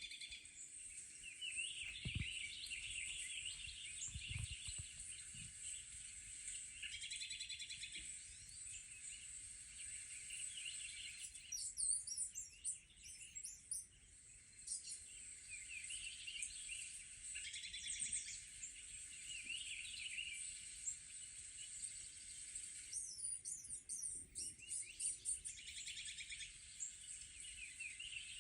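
Birdsong played through a TV's speakers: many small birds chirping and trilling over a steady high hiss, with a couple of soft low thumps a few seconds in.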